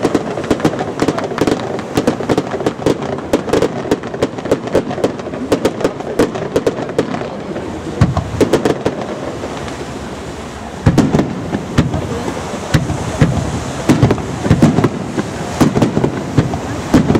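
Aerial firework shells bursting overhead: a steady run of sharp bangs and crackles, with heavier booms about eight and eleven seconds in.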